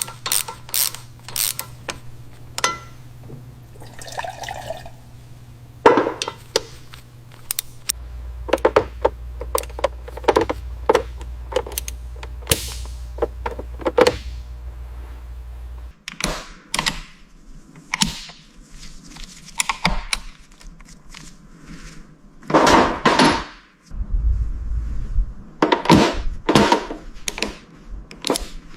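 Workshop work on a car: a long run of irregular clicks, knocks and rattles from hands and tools handling parts, over a low steady hum that changes abruptly twice, about 8 and 16 seconds in.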